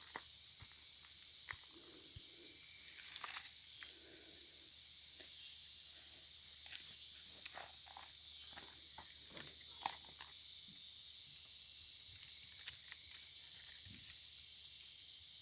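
Steady high-pitched chorus of crickets, with scattered light clicks and crackles.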